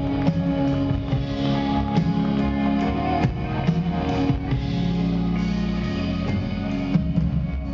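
Live pop band playing through the PA, mainly guitars with drum hits.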